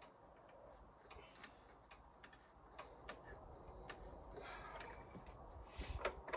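Quiet, with faint scattered clicks and light knocks, a little louder near the end; the mower's engine is not running.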